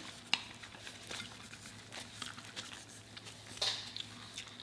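Quiet eating and table-handling sounds: a few small clicks and light rustles, with a sharper click about a third of a second in and a short rustle near the end.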